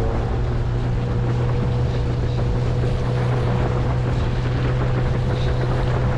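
Mercury 8HP outboard motor running steadily at speed on a small inflatable boat with the hull on plane, its pitch holding constant. Wind noise on the microphone and water rush lie under the motor.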